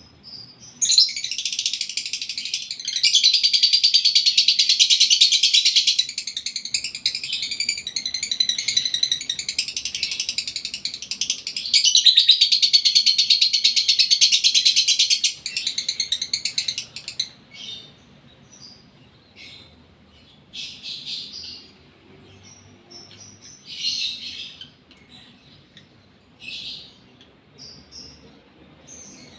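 Lovebird in breeding condition singing a long, rapid, high-pitched chattering song, loudest in two long stretches. After about 17 seconds it breaks into short, scattered chirps.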